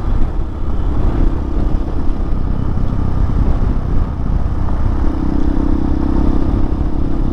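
Hawk 250 dual-sport motorcycle's single-cylinder engine running while riding, with a low wind rumble on the microphone. The steady engine note fades back about a second in and comes up again about five seconds in.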